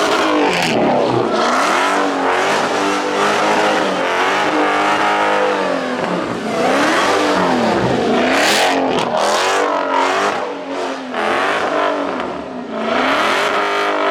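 A car engine revving up and down over and over, its pitch rising and falling every second or two. Loud bursts of hiss come in about two-thirds of the way through and again near the end.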